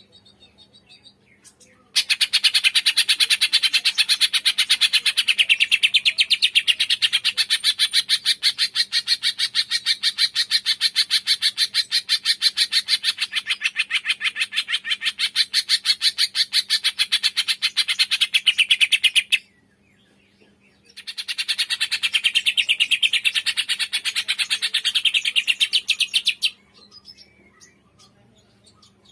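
A songbird's long, rapid trill of evenly spaced high notes that runs for about seventeen seconds, stops briefly, then comes again for about five seconds. It is a recorded masteran song of the kind used to tutor cage birds.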